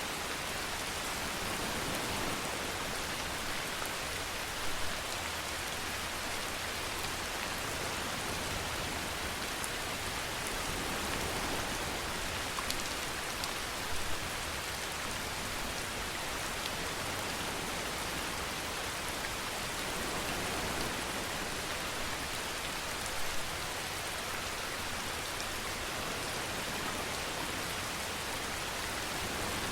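Steady rain falling, an even hiss with a few louder drops now and then.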